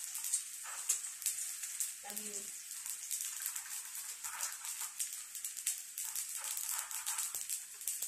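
Eggplant slices frying in hot oil in a pan, a steady sizzle with frequent small crackles.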